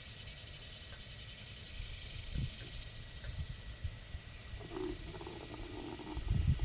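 A pig vocalizing: one pitched call lasting just over a second, about two-thirds of the way in, over scattered low bumps.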